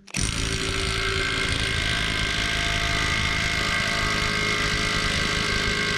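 Cordless impact wrench hammering steadily on a seized bolt for about seven seconds without breaking it loose.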